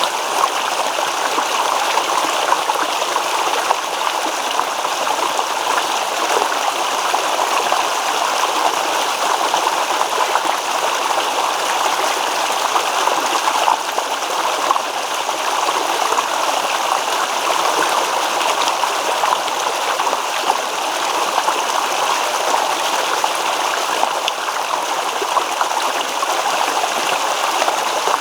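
A shallow stream babbling steadily, water rippling and splashing over stones.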